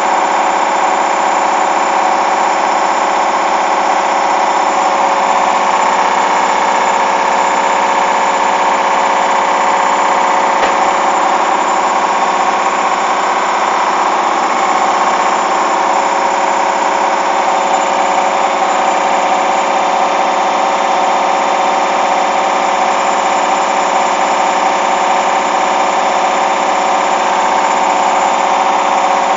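Hoover washing machine's motor running steadily with a constant whine, its drum turning at an even speed. A single click comes about eleven seconds in.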